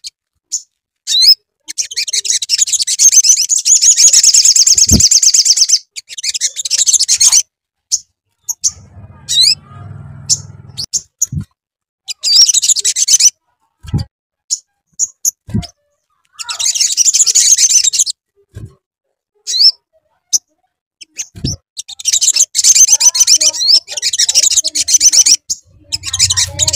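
Sunbird (sogok ontong) song: rapid high trills in four long bursts of one to four seconds, separated by sharp single chirps. A few short low thumps fall between the bursts.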